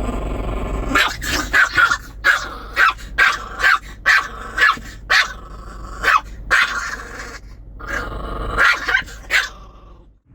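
A dog growling, then barking in a fast string of sharp barks, two or three a second, with a brief pause near the end.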